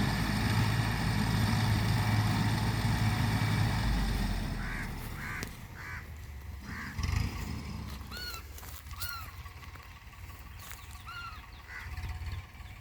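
A tractor engine runs loudly with a steady low hum and fades away about four to five seconds in. After that, a bird calls repeatedly with short, arched calls, about a dozen of them, over a quiet rural background.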